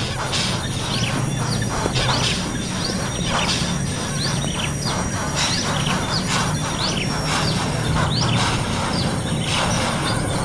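Nestling birds chirping: many short, high calls in quick succession, over a steady low hum.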